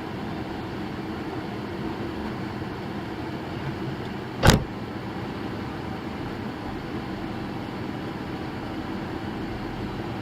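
Steady road and engine noise of a moving car, with a single sharp bang about halfway through.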